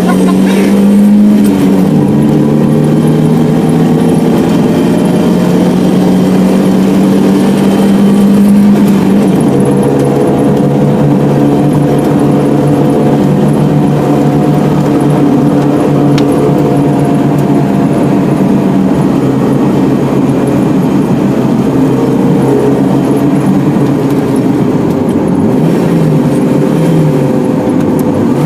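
A car engine pulling hard on a dirt road. Its pitch climbs and drops sharply twice, about 2 and 9 seconds in, as gears are shifted up, then it runs at a steady speed.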